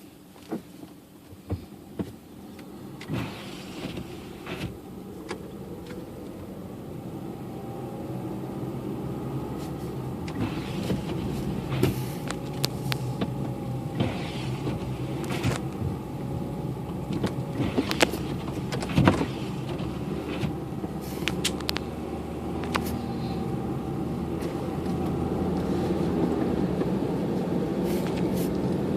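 Car driving on a snowy road: engine and tyre noise grow steadily louder as it picks up speed, with scattered sharp clicks and knocks.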